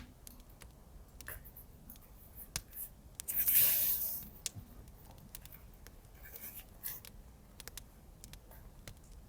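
Hands working with paper and washi tape: scattered light clicks and taps, with one louder rustle lasting about a second, a little over three seconds in.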